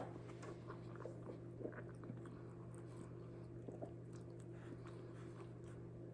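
Faint chewing and small mouth clicks of a person eating, over a steady low hum.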